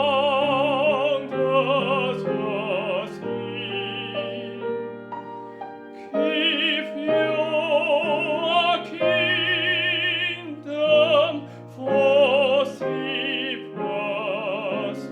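Classical art song: a trained singer with a wide operatic vibrato sings long phrases over piano accompaniment, with short breaths between phrases.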